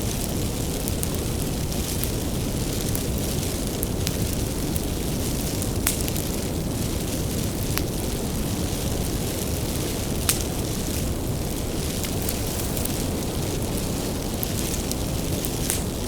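Wood fire burning: a steady low rush of flames, with a few sharp crackling pops from the burning wood.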